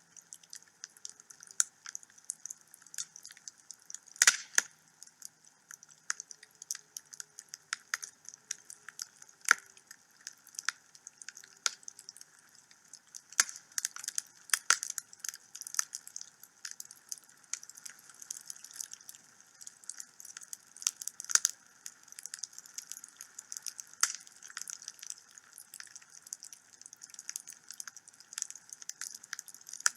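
Wood fire burning in a home fireplace, crackling with frequent irregular sharp snaps and pops over a steady hiss, with one louder pop about four seconds in.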